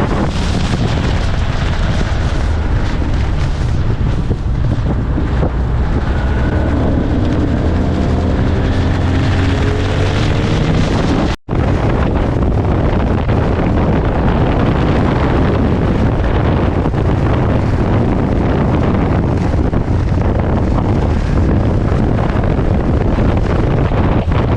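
Wind buffeting the microphone on a moving motorbike, over the steady running of the Honda XR150's single-cylinder four-stroke engine. Midway the engine note climbs as the bike accelerates, and there is a brief dropout about halfway through.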